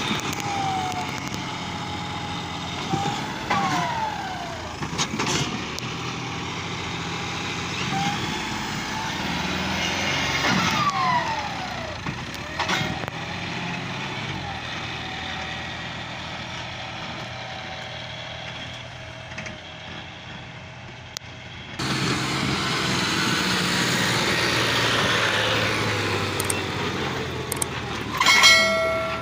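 Tractor engines running, with the sound changing abruptly about three-quarters of the way through. A short pitched tone sounds near the end.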